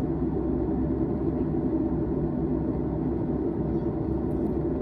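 Steady cabin rumble of a Boeing 737-800 in cruise: engine and airflow noise heard from inside the passenger cabin.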